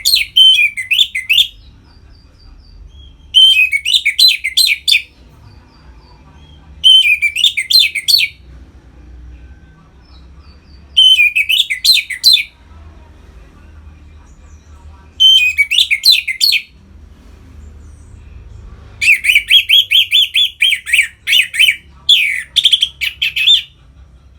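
Orange-headed thrush singing its full, loud 'ngeplong' song in warbled phrases of about a second and a half, repeated every three to four seconds, with a longer run of song near the end.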